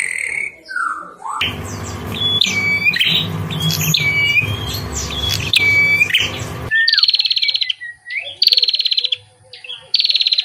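Songbird calls from two recordings: first a string of sharp swooping whistled notes over a steady low hum, then, after an abrupt change about two-thirds of the way in, short high buzzy trills repeated about three times.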